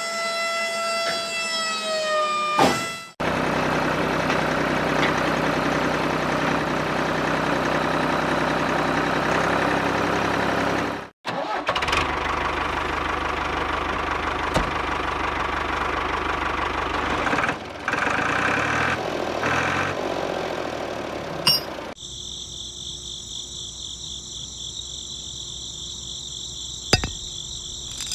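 A small electric motor running with a steady whir, in several edited stretches with abrupt cuts. It opens with a steady pitched whine that slides down and stops after about three seconds. Near the end it gives way to a thin, steady high buzz.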